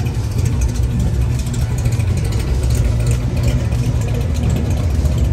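Car engine running close by with a steady, deep low rumble.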